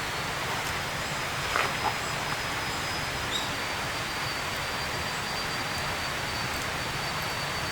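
Steady outdoor background hiss with a thin, high, steady tone running through it, and two light clicks about a second and a half in.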